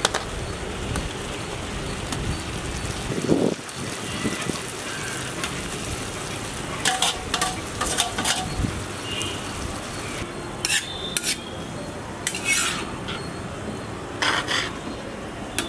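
Chopped tomatoes and onions frying with a steady sizzle in a large iron pan, with a dull thud about three seconds in as tomatoes are tipped in. From about halfway on, a metal spatula scrapes and clinks repeatedly against the steel bowl and the pan.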